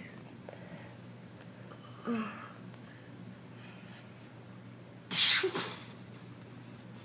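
A person's voice makes two sounds: a short grunt with a falling pitch about two seconds in, then a loud, breathy burst about five seconds in with a smaller one just after.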